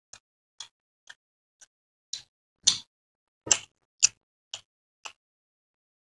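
A man chewing a mouthful of chicken biryani close to the microphone: short clicking mouth sounds about twice a second, a few louder ones in the middle.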